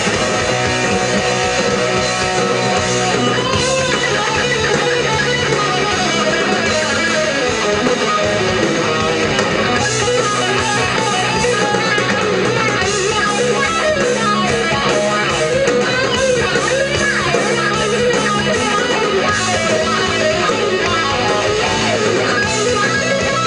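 A rock band playing live, distorted electric guitars strumming steady chords and playing a fast, wavering lead line over bass and drums, without vocals.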